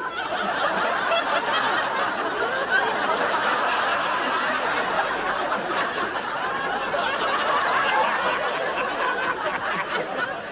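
Studio audience laughing continuously, many voices at once.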